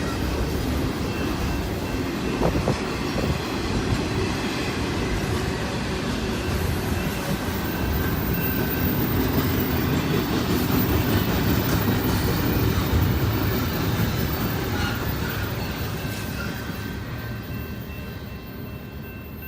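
Freight train's double-stack cars rolling past: a steady rumble of steel wheels on rail with clicks over the rail joints and faint, thin wheel squeal. The sound fades over the last few seconds as the train moves off.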